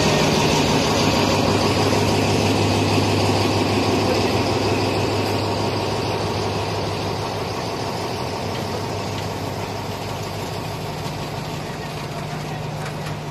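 Passenger train rolling slowly past close by on a wooden trestle: a steady rumble of wheels and coaches with a low engine hum, gradually fading as the train moves away.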